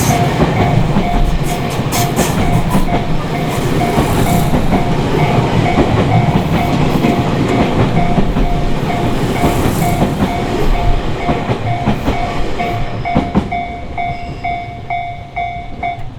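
A Tobu Tojo Line train passing over a level crossing, its wheels clattering over the rail joints, while the crossing's warning bell rings over and over at an even pace. The train noise dies away over the last few seconds, leaving the bell.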